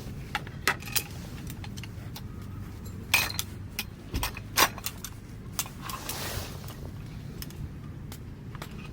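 Irregular sharp clicks, clinks and knocks, the loudest a few seconds in, over a steady low hum.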